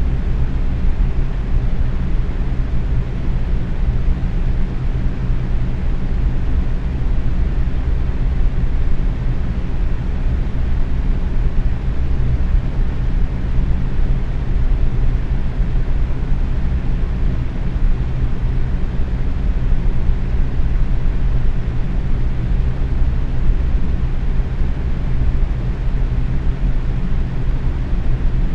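Box fan running steadily at medium speed: an even whooshing rush of air, heaviest in the low end, with a faint low motor hum.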